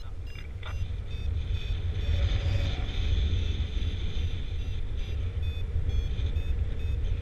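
A flight variometer beeping in short tones that change in pitch, several a second, over a steady rumble of wind on the microphone. The beeping tells the pilot the glider is climbing in rising air.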